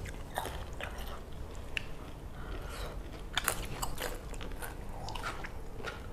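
Close-up mukbang eating: people biting and chewing fried skewered Indonesian street snacks, with irregular small crunches and clicks, a busier run about halfway through.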